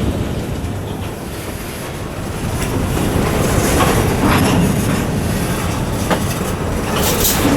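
Freight train rolling over badly maintained track: a steady low rumble broken by irregular clanks and knocks from the wheels, with a louder, sharper clank near the end.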